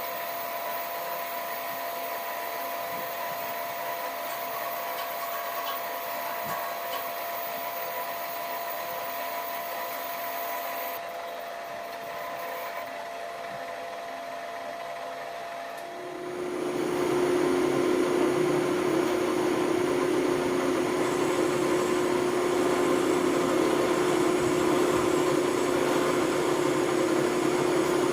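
Shop machine's motor running steadily with a constant hum. About sixteen seconds in it grows louder and a new, lower steady tone joins, as if the machine is put under load or a second machine starts.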